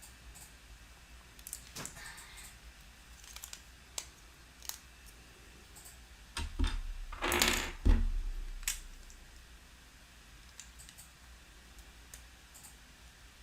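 Small plastic Mega Construx building pieces clicking and tapping as they are handled and snapped together, with a scatter of separate clicks and a louder burst of rattling and two dull thumps a little past the middle.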